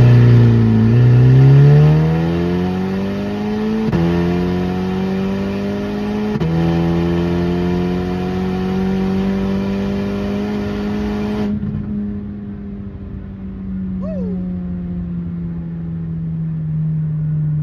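Audi S3's turbocharged 2.0-litre four-cylinder, running with no exhaust, pulled at full throttle from 60 to 130 mph, heard from inside the cabin. The engine pitch climbs, drops at gear changes about 4 and 6.5 seconds in and climbs again, then the throttle closes about 11.5 seconds in and it settles to a lower drone as the car cruises.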